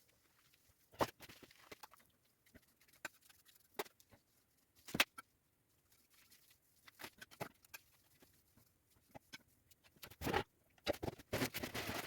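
Irregular scrapes and taps of hand tools working wet concrete in a foundation form. The louder scrapes come about a second in, five seconds in, and in a run over the last two seconds.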